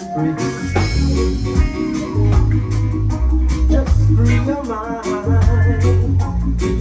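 Live band playing an instrumental passage: electric bass, drum kit, guitar and keyboards, with a strong pulsing bass line under a steady beat.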